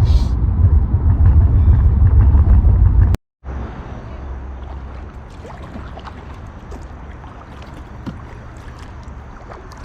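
Loud low rumble of a moving car, cut off abruptly a little over three seconds in; then a much quieter steady hush of river water with scattered faint ticks.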